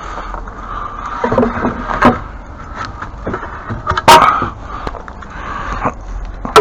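Several knocks and clatters of hard objects being handled and set down, the loudest about four seconds in, over a steady hiss.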